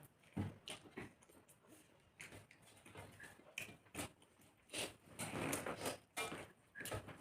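People eating rice and chicken curry: irregular wet chewing and mouth smacks, with short clicks at uneven intervals.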